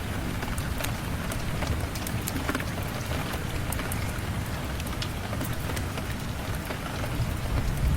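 Steady rain falling, an even hiss with many sharp drop ticks over a low rumble. Near the end a deep rumble of thunder swells up.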